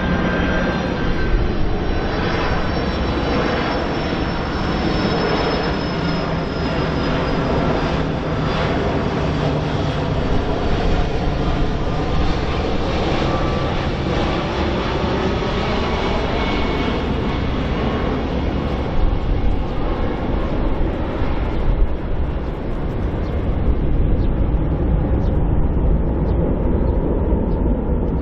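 Boeing 767-300ER airliner's twin jet engines passing on approach: a loud, steady jet noise with a high whine that slowly falls in pitch, its upper end fading over the last several seconds as the aircraft moves away.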